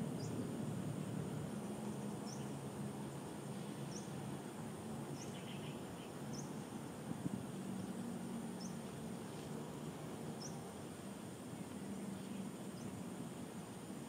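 Short, thin, high-pitched bird call notes, repeated about every one to two seconds, over a faint low steady hum.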